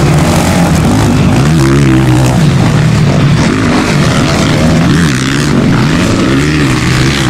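Motocross motorcycle engines racing, their pitch rising and falling over and over as the throttle is opened and closed.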